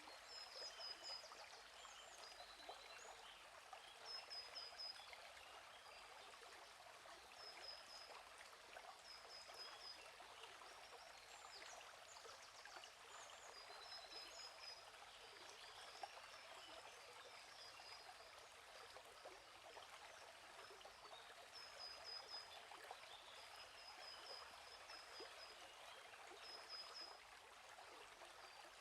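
A gently flowing stream, faint and steady, with a small bird chirping high, short groups of quick notes every second or two.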